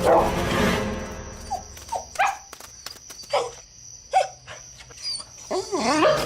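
A dog barking in short single barks, spaced out, then a wavering whine near the end.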